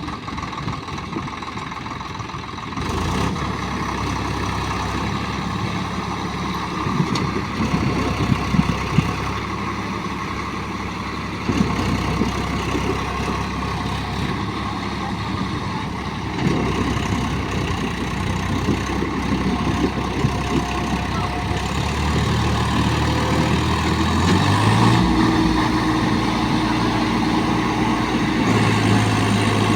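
Swaraj 744 tractor's three-cylinder diesel engine running under load, pulling a sand-laden trolley. It gets louder about three seconds in, and its pitch steps up about 24 seconds in as the revs rise.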